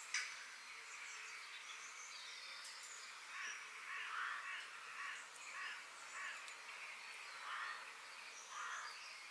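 Forest birds singing and calling: many short high chirps and whistles over a steady hiss, with a run of harsh, rasping calls from about three seconds in. A sharp click sounds just after the start.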